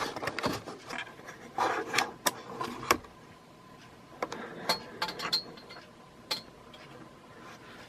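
Handling noise from a vintage metal-framed box fan with plastic blades and cage: scattered clicks, taps and rubbing, louder in the first three seconds.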